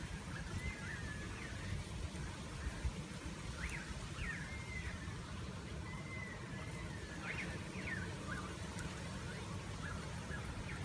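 Faint bird chirps and short whistled calls, some gliding up and down and a few quick upswept notes around four and seven seconds in, over a steady low rumble.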